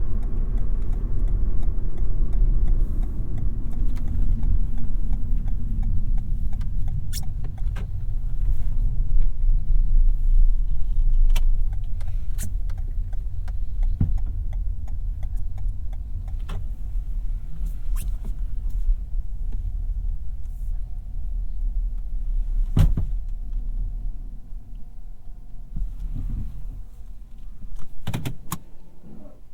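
Low road and tyre rumble inside the cabin of a Toyota Yaris 1.5 Hybrid, easing off as the car slows to park. Scattered small clicks are heard through it, with one sharper knock about two-thirds of the way in and a few more clicks near the end as it comes to rest.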